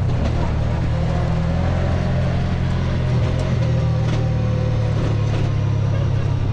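A vehicle engine running steadily, a continuous low drone with no rise or fall.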